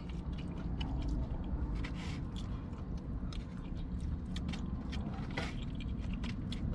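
A person eating chili: soft chewing with scattered light clicks and scrapes of a spoon, over a steady low rumble.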